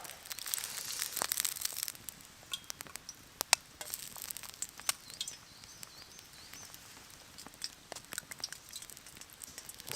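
Hot oil spitting in a pan over a campfire: a hiss of sizzling for about the first two seconds, then scattered sharp pops and crackles.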